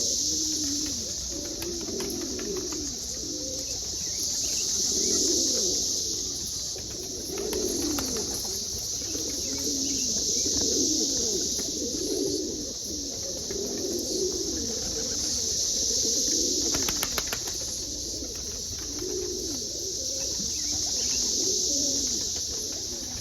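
Homing pigeons cooing, several low calls repeating and overlapping, over a steady high hiss. A quick run of clicks about two-thirds of the way through.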